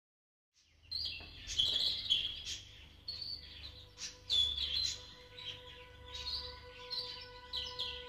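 Small birds chirping and singing in short, quickly repeated phrases, starting after a moment of silence. A steady held musical note comes in under them about halfway through.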